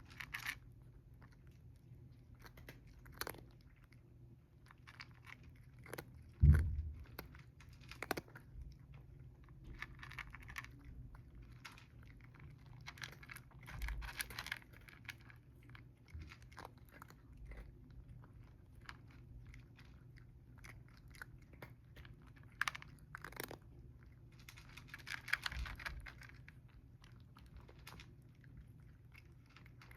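Cats chewing and crunching food, with scattered small clicks and crunches. One louder thump comes about six seconds in.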